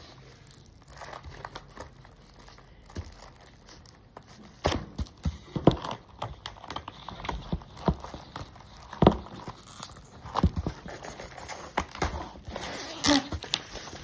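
Irregular crinkling and scratchy crackling of paper or cardboard, faint at first and then loud from about four and a half seconds in, in sharp uneven bursts.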